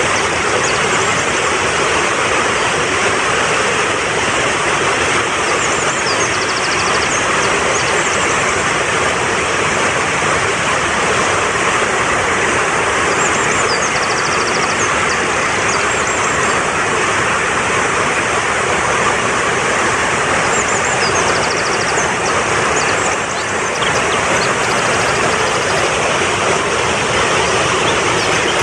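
Fast-flowing mountain stream rushing steadily over rocks. Short high bird chirps and trills come through above it every few seconds.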